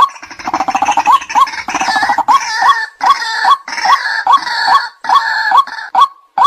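White-breasted waterhen calling: a harsh, gurgling, croaking outburst over repeated hooked 'kwak' notes, settling back into the evenly repeated kwak notes near the end. This is the call used as a lure to draw waterhens in.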